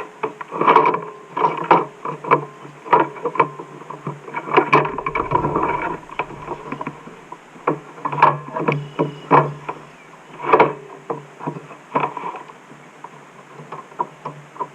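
Irregular knocks and clunks of gear handled on a kayak, with a low rumble for a second or so about five seconds in.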